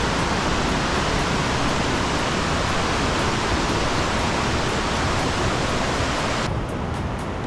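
Rushing water running steadily with a dense, even hiss; about six and a half seconds in the highest part of the hiss drops away and it turns slightly softer.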